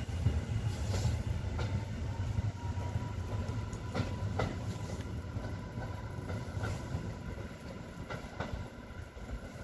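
EN57AKS electric multiple unit moving away along the track with a low rumble, its wheels clicking over rail joints. A faint whine rises in pitch over the first few seconds, and the rumble slowly fades.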